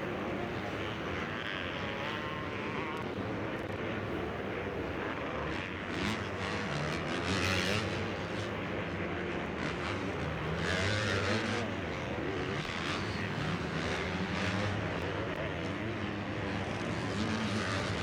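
Motocross bikes racing, their engines revving up and down through the gears, with louder passes swelling at times.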